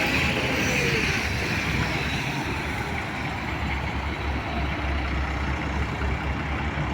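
Cabin noise of a Belkommunmash BKM-43300D trolleybus under way: steady low rumble and road noise, with a faint electric drive whine that drops in pitch and fades over the first second or two.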